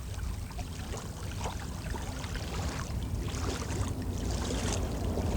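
Wind buffeting the phone's microphone in a steady low rumble over the rushing of water, growing slowly louder toward the end.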